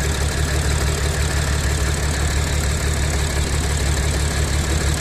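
Audi supercharged V6 petrol engine idling steadily with a slight pulse. It is a rough, noisy idle that the mechanic puts down to a misfire, perhaps from an intake air leak or a fuel injector fault.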